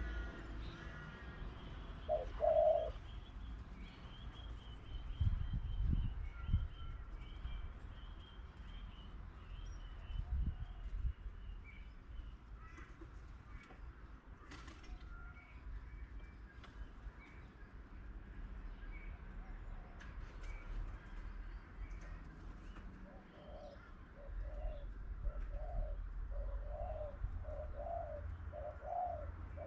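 Outdoor birdsong: small birds chirp in a rapid series of high notes through the first part. Near the end a pigeon or dove coos in a run of low notes repeated about once or twice a second, over a low rumble.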